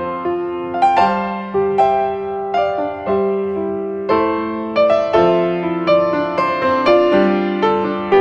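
Background piano music, a slow melody of single struck notes over sustained chords.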